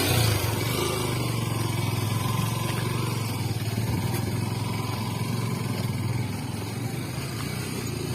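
Motorcycle engine running at a steady low pitch while riding, easing off slightly about six seconds in.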